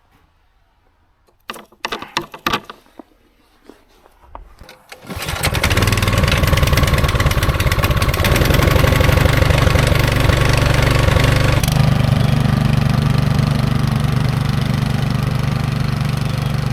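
Snow blower's Powermore 208cc single-cylinder engine: a few clicks and knocks, then the engine catches about five seconds in and runs steadily. About twelve seconds in its note changes, the low part stronger and the high part weaker.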